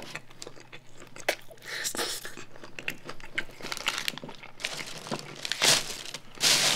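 A mouthful of fried chicken burger being chewed close to the microphone, with small crunches and the burger's paper wrapper crinkling and rustling. The loudest rustles come near the end.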